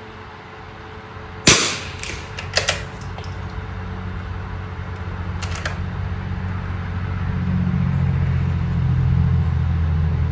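A single shot from a Winchester 52C .22 rimfire bolt-action target rifle about a second and a half in, followed by a few sharp clicks about a second and four seconds later. A low engine rumble builds through the second half.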